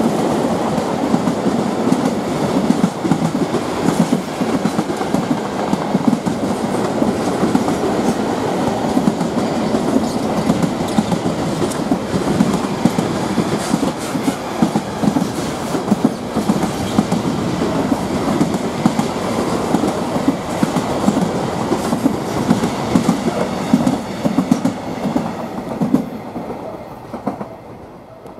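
Container freight wagons rolling past, a steady rumble of steel wheels with rapid clickety-clack. The sound falls away quickly as the last wagon goes by near the end.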